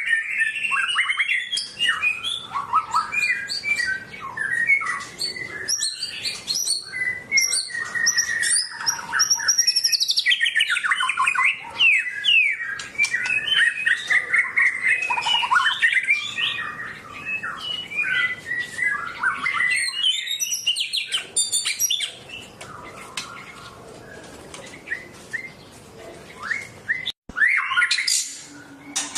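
A songbird singing a long, fast run of varied chirps, trills and whistles. The song drops to quieter calls about three-quarters of the way through, then a few loud chirps return near the end.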